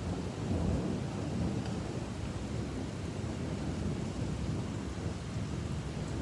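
Steady rain, with a low rumble underneath.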